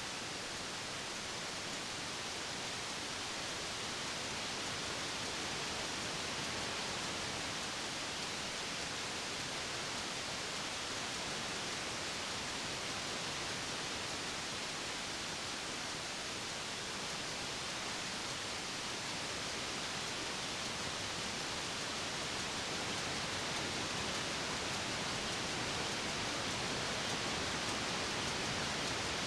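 Ship's engine room with the MAN B&W main diesel engine of about 11,000 kW running, heard as a steady, dense, hiss-like noise without distinct knocks or changes.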